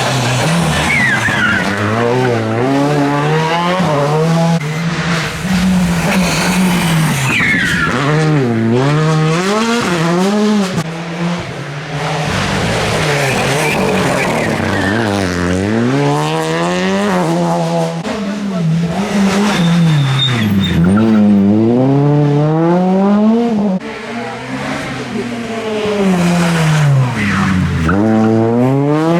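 Rally car engines revving hard, their pitch climbing and dropping again and again as the drivers accelerate, change gear and lift off, with tyre squeal as the cars slide through the stage.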